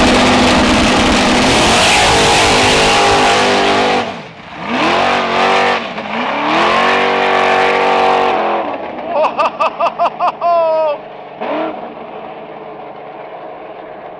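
A drag-racing car at full throttle down the strip. The engine pitch climbs, drops at each upshift and climbs again through several gears. About nine seconds in comes a rapid stuttering series of short revs, then the engine sound falls away quieter.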